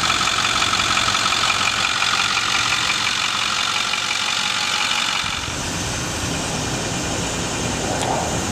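A utility bucket truck's engine running steadily, with a high steady whine over it that fades about five seconds in, leaving a lower rumble.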